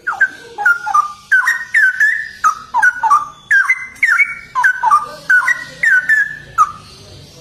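Straw-headed bulbul (cucak rowo) singing a fast, unbroken run of loud, swooping whistled notes, about three a second, stopping shortly before the end.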